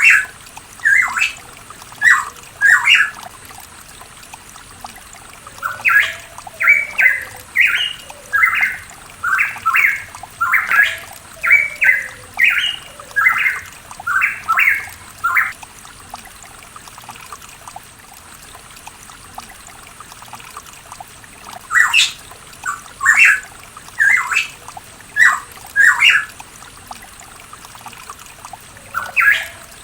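Pitohui calling: runs of short, loud notes, about two a second, with a pause of several seconds in the middle before the calls resume.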